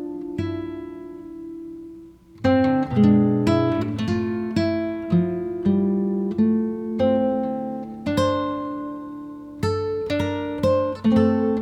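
Background music on acoustic guitar: a chord rings and fades, then plucked notes and chords follow at an easy pace from about two seconds in.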